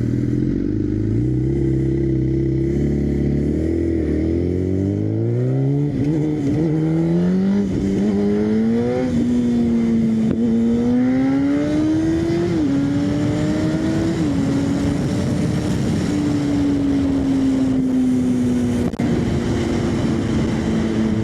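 Motorcycle engine accelerating hard, its pitch climbing steadily for about nine seconds, then shifting up with two sharp drops in pitch around the middle, and settling into a steady high-speed run that slowly falls in pitch.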